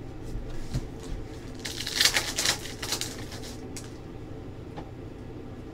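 Trading cards and their foil pack wrappers being handled: scattered small clicks, and a burst of rustling and crinkling about two seconds in that lasts around two seconds.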